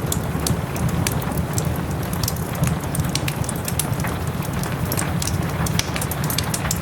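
Wood fire in a fireplace crackling, with many sharp pops, over the steady hiss of soft rain.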